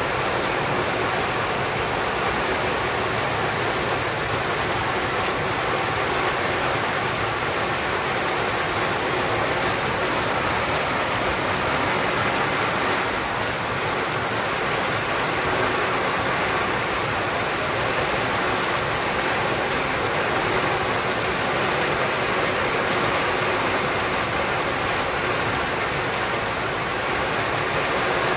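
Loud, steady rushing of water during heavy rain and flooding.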